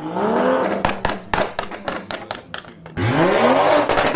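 A car engine revved hard twice, its pitch rising quickly each time: once right at the start and again about three seconds in, with sharp cracks through the sound.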